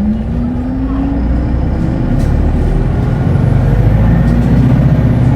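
Hino Blue Ribbon Hybrid city bus heard from inside the cabin, accelerating: a steady low drivetrain rumble, with its note rising steadily as the bus gathers speed.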